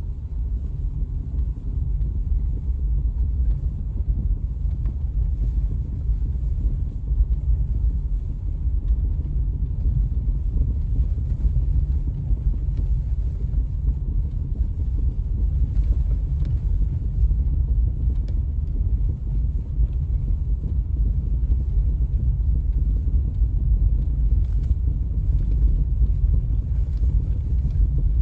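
Steady low rumble of a vehicle, with a few faint knocks heard over it.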